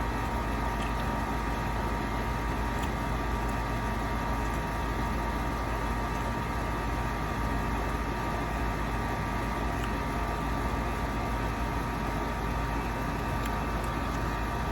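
Steady machine hum with several steady tones, unchanging throughout.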